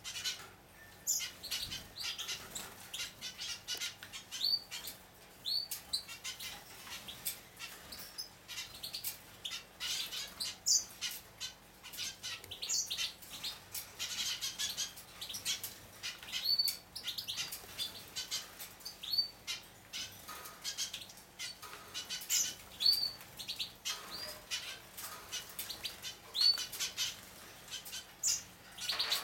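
Juvenile hooded siskin x canary mule finches bathing: repeated quick wing flutters and splashes in the bath water, with short high chirps scattered throughout.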